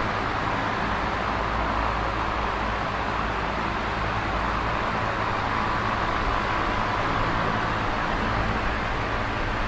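Electric fan running steadily: an even whooshing rush of moving air over a low motor hum.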